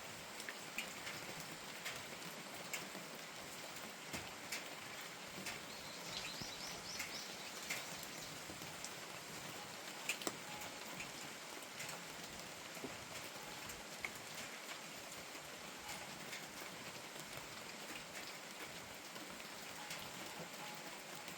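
Steady rain falling, with individual drops tapping sharply close by. A short run of high chirps comes about six seconds in.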